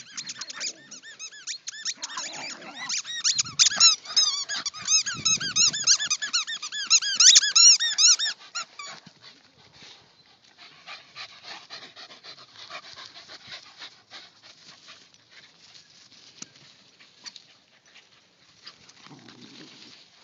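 A dog chewing a squeaky toy, making rapid repeated high squeaks several times a second for about the first nine seconds. After that the sound drops to fainter chewing and clicking.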